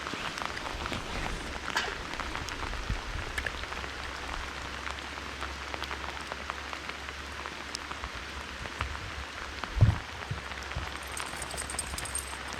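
Steady rain pattering, full of small scattered raindrop ticks. A single dull thump comes about ten seconds in.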